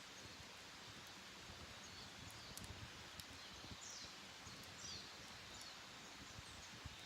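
Wild birds chirping faintly: a few short, high, falling chirps in the middle, over a quiet steady outdoor hush with scattered faint clicks.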